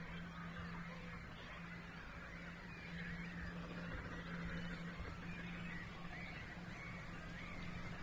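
Marsh soundscape of many birds calling at once in a dense, continuous chatter, with goose-like honking among them, over a steady low hum of distant man-made noise.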